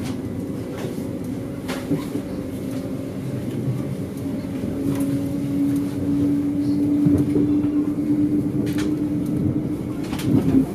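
Cabin noise of a Stadler FLIRT passenger train under way: a steady rumble with a humming tone that grows louder in the second half, and a few sharp clicks.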